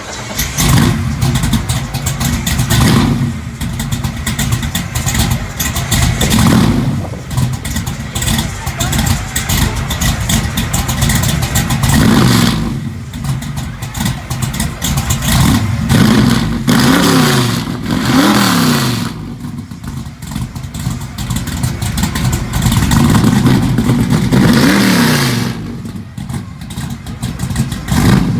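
A 632 cubic-inch (10.3 L) V8 in a 1969 Camaro Z28 running loud through dual 4-inch exhaust, revved again and again in quick blips that rise and fall in pitch, dropping back to idle between them. A quick run of three blips comes about 16 to 18 seconds in.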